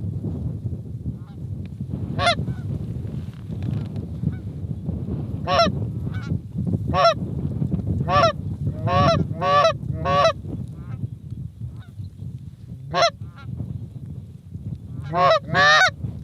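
Geese honking: about ten short, sharp honks spread out, some in quick pairs, over a steady low rumble of wind on the microphone.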